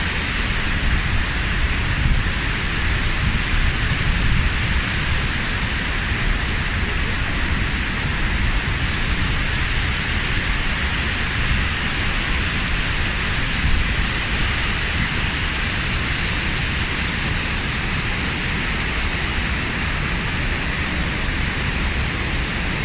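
Waterfall and mountain stream: a steady rush of water pouring over rocks.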